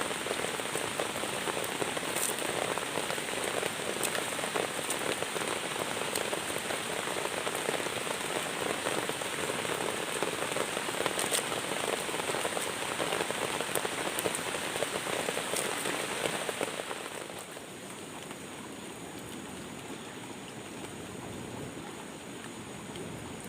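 Steady rain falling on a surface, with scattered sharp drop ticks; it becomes quieter about 17 seconds in.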